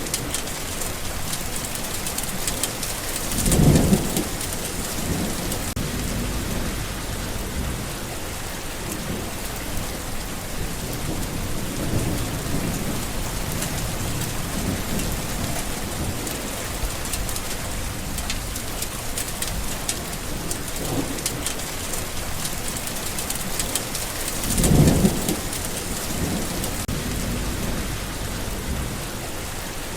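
Steady rain falling, with thunder rumbling low twice: a few seconds in and again late on.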